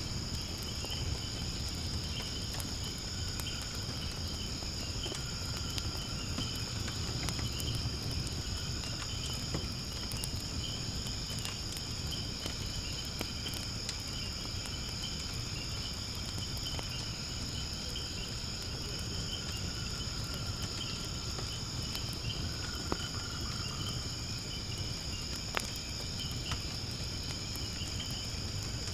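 A steady, high-pitched chorus of insects, with firewood burning in a fire pit crackling and popping underneath, and a low rumble from the flames. Two sharper pops come near the end.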